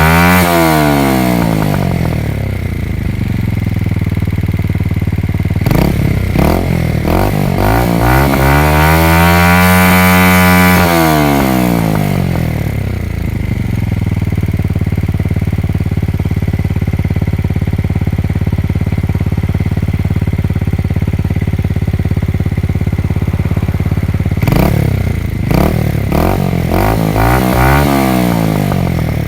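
Yamaha motorcycle engine and exhaust revving and idling. The revs fall away at the start, there are a few quick throttle blips about six seconds in, then a long smooth rev up and back down. After that it idles steadily, with another run of quick blips near the end.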